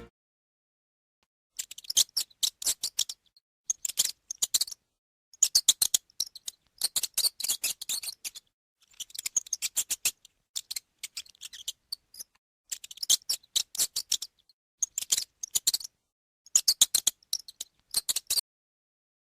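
Mouse squeaking in rapid, very high-pitched chattering bursts of about a second, repeated a dozen or so times with short silent gaps between them.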